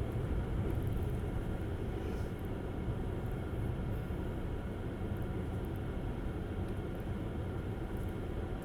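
Steady low rumble of tyres and road noise from a Tesla Model S driving on a snowy road. The car is electric, so no engine note is heard.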